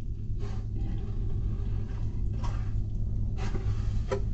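Close-up chewing and a few wet mouth smacks on a bite of a bologna, egg and cheese sandwich, over a steady low rumble inside a car.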